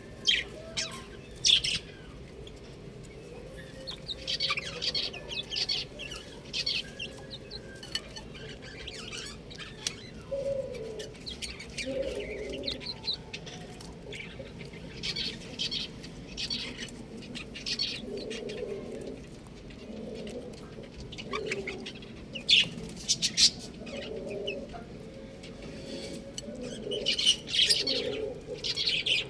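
Domestic chicks peeping in clusters of short, high chirps, joined from about ten seconds in by a repeated lower call from another bird.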